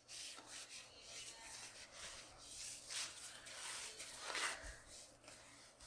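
Faint rubbing and handling sounds, with soft scrapes about three seconds in and again about four and a half seconds in.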